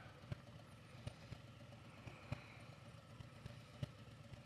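Faint low rumble of a motorcycle engine idling while stopped, with a few scattered light clicks.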